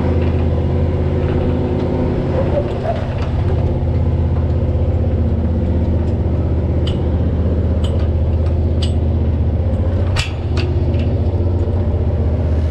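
Truck engine running steadily at low revs, with several sharp clicks or knocks about seven to ten seconds in.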